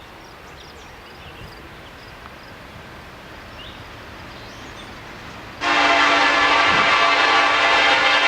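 Low outdoor hush, then about five and a half seconds in a diesel locomotive's air horn starts suddenly and loudly: one long, steady multi-note blast.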